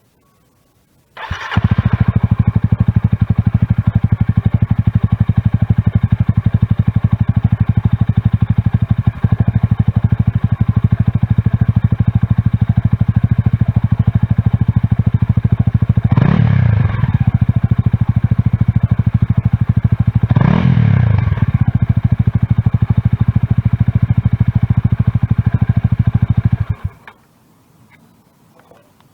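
Honda Rebel 250's single-cylinder engine through an aftermarket slip-on muffler: it starts about a second in, idles with a steady thump, is blipped twice in the second half, and is switched off near the end.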